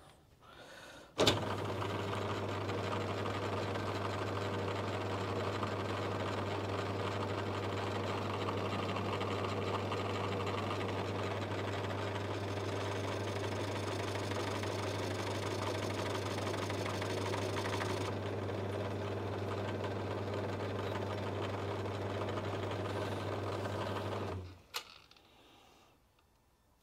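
Metal lathe switched on about a second in, its motor running with a steady low hum while a light cut is taken off the spinning part, then switched off sharply near the end.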